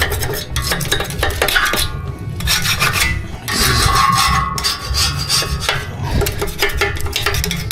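Rasping, scraping and rubbing against the rusty steel trolley, with a short held squeal in the middle.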